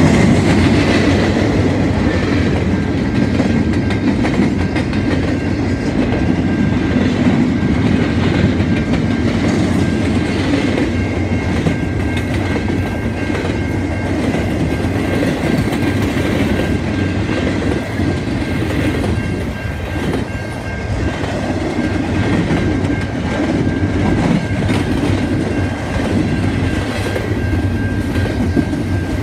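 Double-stack intermodal well cars of a freight train rolling steadily past at close range, a continuous rolling rail noise, with a thin steady high tone running through it.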